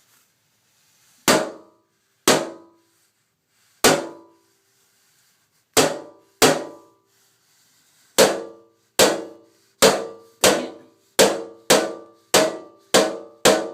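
A machete striking a bathtub again and again, about fourteen sharp hits, each followed by a short ringing decay. The blows are spaced out at first and come faster and steadier in the second half.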